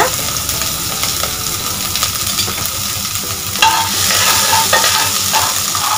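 Chopped green chillies and cumin seeds sizzling in hot oil in a metal kadhai, with a spatula stirring and scraping them around the pan. The frying gets somewhat louder about three and a half seconds in.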